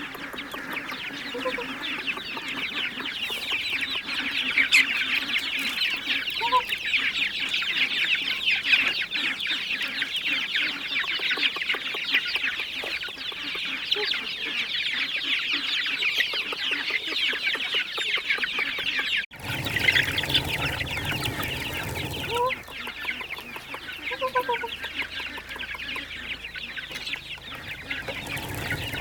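Chickens clucking, with a few short rising calls over a dense, steady high-pitched background.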